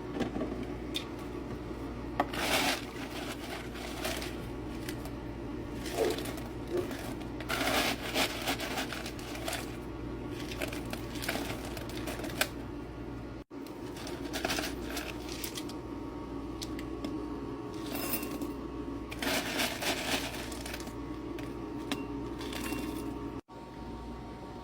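Nugget ice clattering and rattling in irregular clusters of small clicks over the steady hum of a countertop nugget ice maker. The sound cuts out abruptly twice.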